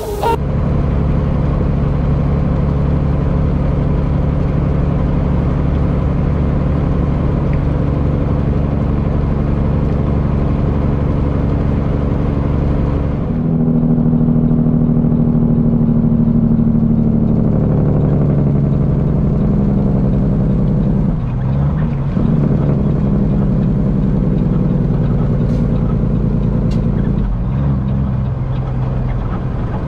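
Peterbilt semi truck's diesel engine running under way, heard from inside the cab, with road hiss. About 13 seconds in the hiss drops off and the engine note steps up, then falls and wavers.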